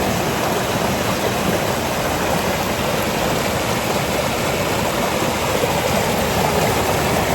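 Steady rush of running water, an even hiss with no pitch or rhythm.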